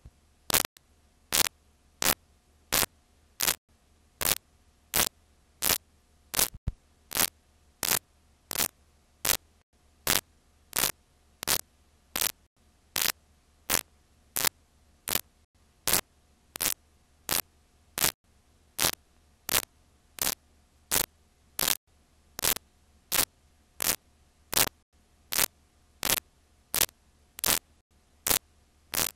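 Sharp static clicks repeating at an even pace, about three every two seconds, over faint hiss: a recording or playback artifact, not a sound in the scene.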